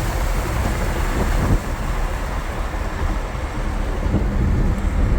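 Lamborghini Huracan's V10 engine running at speed on a track, heard from inside the cabin as a steady low rumble mixed with road and wind noise.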